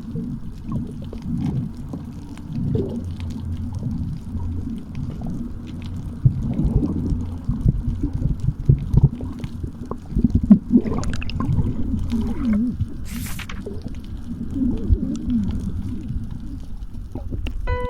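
Muffled water noise heard through an underwater camera: low, irregular sloshing and gurgling, with a short hiss of bubbles about thirteen seconds in.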